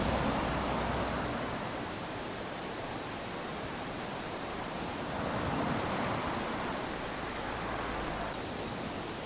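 Small waves lapping onto a sandy beach: a continuous wash of surf that swells as a wave runs up the sand near the start, and again a little past halfway.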